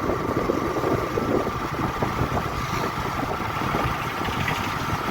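Motorcycle engine running steadily, with a constant hum and road noise.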